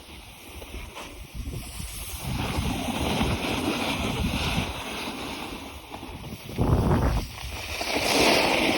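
Wind gusting across the microphone, a rushing noise that swells and fades, with two stronger buffets near the end.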